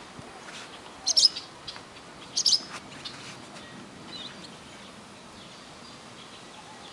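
Bird chirping: two short bursts of high chirps about a second apart, then a few fainter chirps, over a faint steady background hiss.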